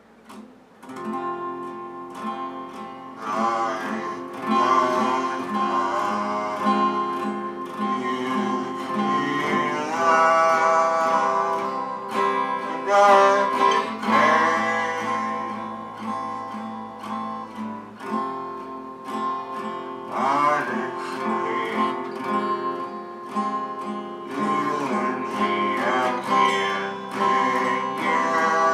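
A voice sung through an accordion, gliding up and down in pitch over steady held reed chords, with strummed string accompaniment.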